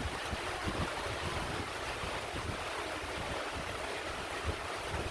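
Wind buffeting the microphone in irregular low rumbling gusts over a steady hiss.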